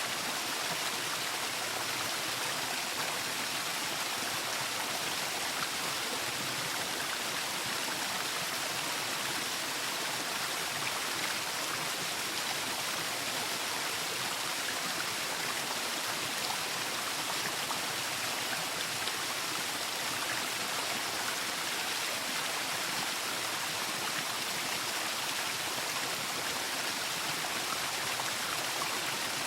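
Waterfall: water falling and rushing in a steady, even hiss, with no change in level.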